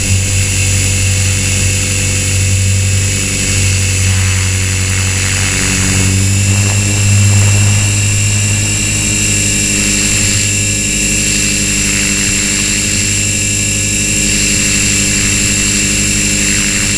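Walkera V450D01 electric RC helicopter in flight: the steady whine of its brushless motor over the thrum of the main rotor. The pitch shifts slightly about six seconds in.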